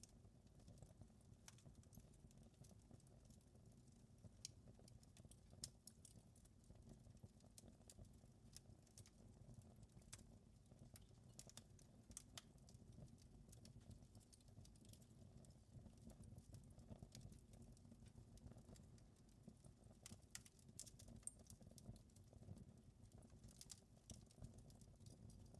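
Wood fire crackling faintly in a fireplace: irregular small pops and snaps over a low steady rumble.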